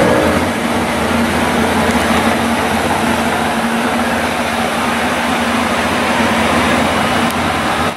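A car engine running steadily at idle: a constant rumble with a steady hum over it.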